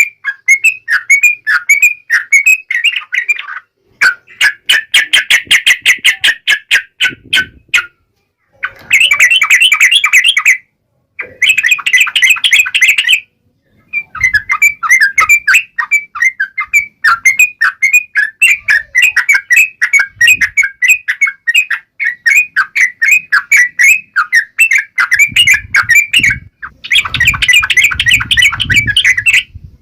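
Yellow-vented bulbul (trucukan) singing in long runs of rapid, repeated chirping notes, broken by a few short pauses, with a low rumble underneath near the end.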